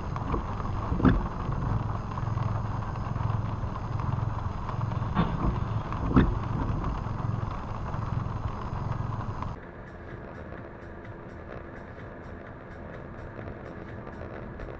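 Steady car road and engine noise as heard from a car-mounted camera, broken by two sharp thumps, about a second in and about six seconds in. The noise drops to a quieter, steadier level near the ten-second mark.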